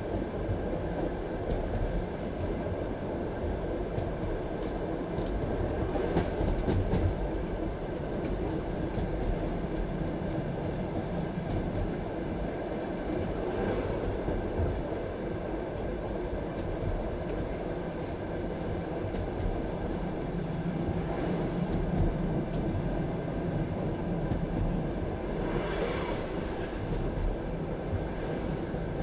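Passenger train carriage running along the track: a steady rumble of wheels on the rails, with a few louder brief clatters spread through it.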